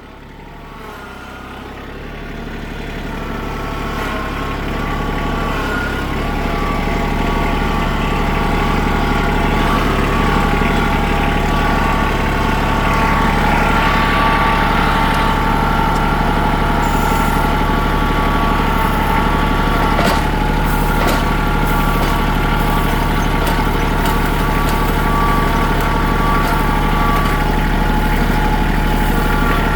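Engine of a heavy machine running steadily, growing louder over the first several seconds as it comes closer, with a steady high whine over the drone.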